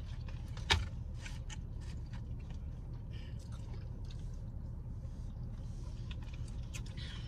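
Close-miked eating sounds: chewing and mouth clicks, with one sharp click under a second in standing out above the rest, over a steady low hum.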